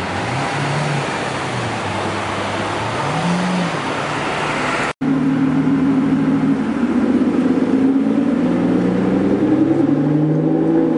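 Supercar engines at street speed: a Lamborghini's engine blipped twice in quick rises and falls. After a sudden cut, an Aston Martin's engine pulls away with a louder, steady note that climbs slowly and then drops near the end.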